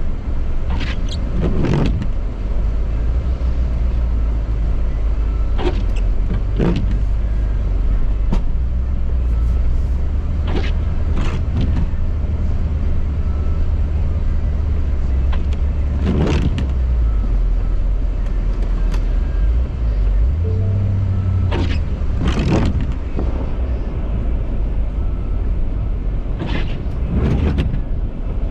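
2018 Ford F-350's 6.7-litre Power Stroke V8 diesel running under load with a steady low rumble, its note rising about two-thirds of the way through. A short sharp knock or clank comes every few seconds.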